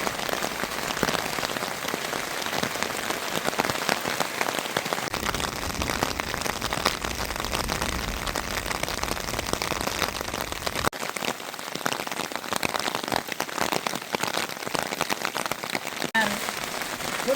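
Steady rain falling, a dense patter of many small drop impacts, with a low rumble underneath for several seconds in the middle.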